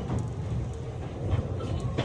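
Interior running sound of a JR West 227 series electric train's motor car: a steady low rumble of wheels on rail, with a sharp click at the start and a faint thin tone in the second half.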